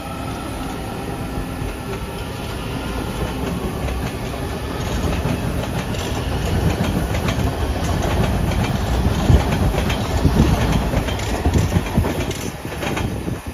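A train running past close by: a steady rumble with its wheels clicking over rail joints, growing louder through the first half.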